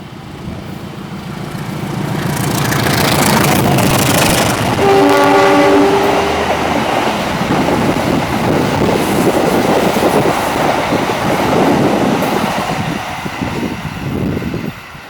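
Indonesian passenger train hauled by a CC 203 diesel-electric locomotive passing close by, growing louder as it approaches. About five seconds in it gives one horn blast lasting roughly a second. The wheels then clatter over the rails as the carriages run past, and the noise falls away near the end.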